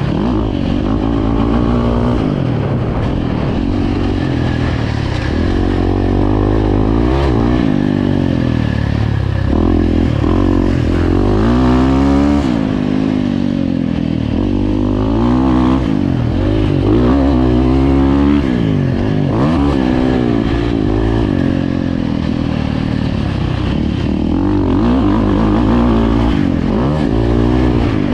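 Dirt bike engine revving hard, its pitch climbing and dropping again and again as it accelerates and backs off, as in riding a motocross track.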